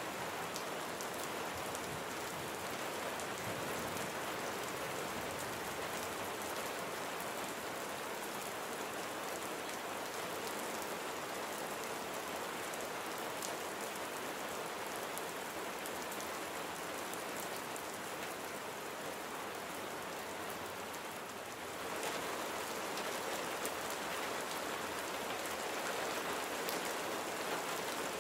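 Steady rain falling, with many small drops striking surfaces. It grows a little louder about three-quarters of the way through.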